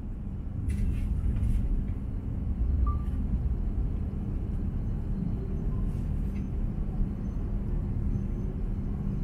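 Interior running noise of an H5-series Shinkansen heard from inside the passenger car as it moves through a station: a steady low rumble with a constant low hum, and a few faint clicks.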